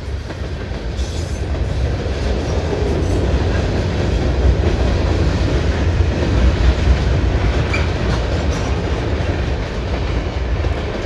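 CN freight train's cars rolling past on the rails: a steady, heavy rumble of wheels and cars, growing a little louder through the middle.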